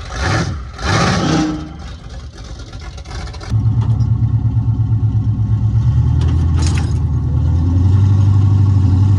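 A truck engine comes on suddenly about three and a half seconds in and runs loud, with a low, pulsing exhaust note that swells a little near the end.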